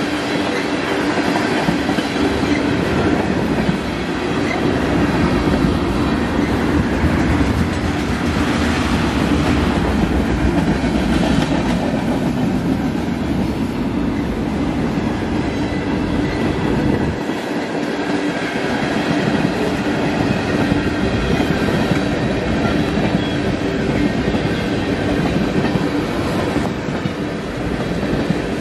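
Freight cars of a Canadian National mixed freight train rolling past on the rails, a loud, steady, continuous rumble of steel wheels on track.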